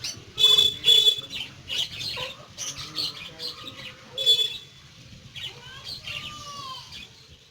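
Birds calling and chirping, with loud short calls about half a second, one second and four seconds in.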